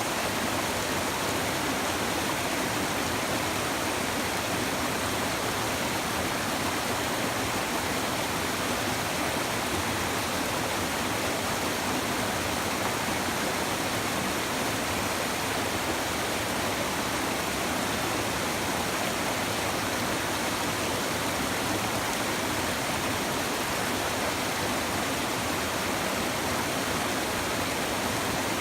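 A river or stream babbling, a steady even rush of flowing water.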